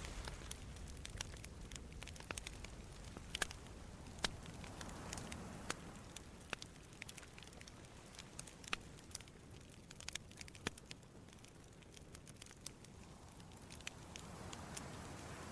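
Wood campfire crackling, with sharp pops and snaps scattered irregularly, over a soft wash of sea waves on the shore that swells up around the middle and again near the end.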